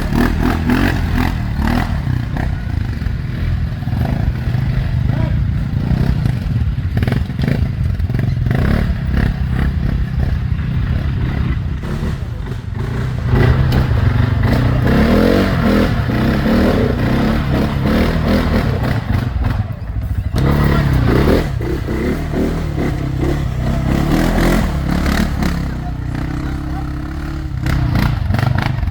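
ATV engine running under varying throttle while riding over rough ground, with clattering, thumps and scrapes from the machine bouncing over the terrain.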